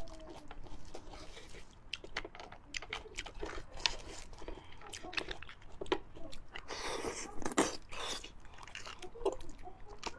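Close-miked chewing and biting of fatty beef bone marrow: many short mouth clicks, with a denser stretch of noisy chewing about seven seconds in.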